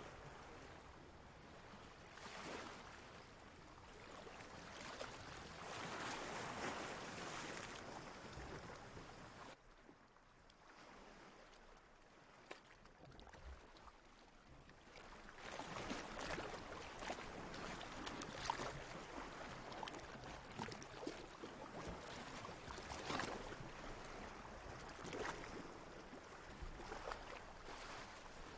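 Water lapping and splashing in slow swells, with many small sharp splashes. There is a quieter lull about a third of the way in, then it builds again.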